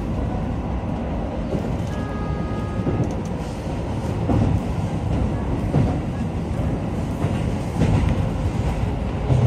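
Keio Line electric train running through a tunnel, heard from inside the front car: a steady rumble of wheels on rail with occasional knocks. About two seconds in, a brief high steady tone sounds for about a second.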